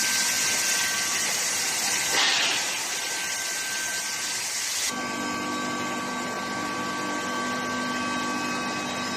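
Steel pipe induction heating line running: a strong steady hiss with a brief surge about two seconds in. About halfway through it gives way abruptly to a quieter hiss with a steady hum and whine of several tones.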